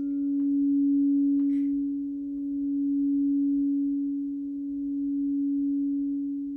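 Crystal singing bowl ringing one sustained low note with a few fainter overtones, its loudness slowly swelling and fading in a wavering pulse.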